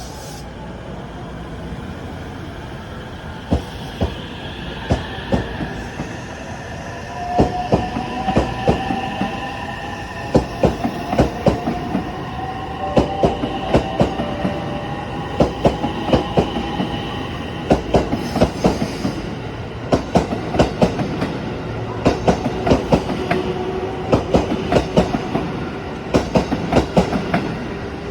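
JR 225 series and 223 series electric multiple unit pulling away from a station: the motor whine slowly rises in pitch as it gathers speed, and the wheels clack over the rail joints, more and more often.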